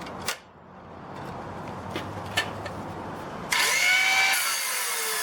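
Handling clicks, then about three and a half seconds in a cordless circular saw starts up and cuts into a 2x4 at a 45-degree bevel. Its motor tone falls as it bogs under the load of the bevel cut on a small 1.5 Ah battery.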